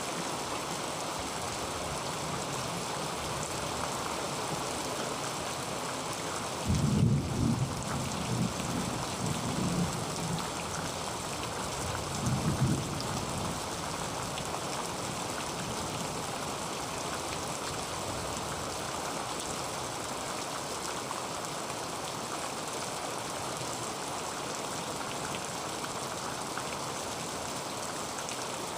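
Heavy rain drumming steadily on a tin roof, with two low rolls of thunder: one starting about seven seconds in and rumbling for a few seconds, and a shorter one around twelve seconds in.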